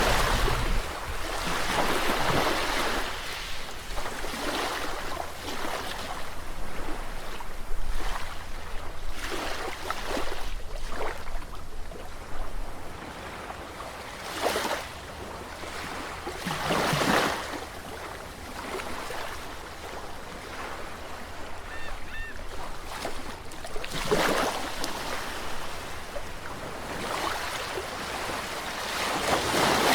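Sea waves breaking and washing ashore, the surf swelling and fading in irregular surges every few seconds.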